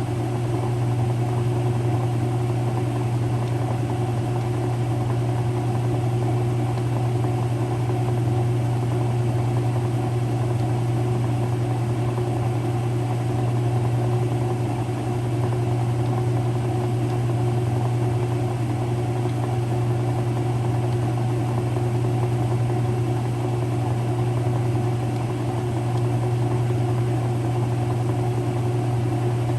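Early-2000s Whirlpool direct drive washer agitating in its wash cycle: a loud, steady mechanical hum from the motor and transmission driving the dual-action agitator.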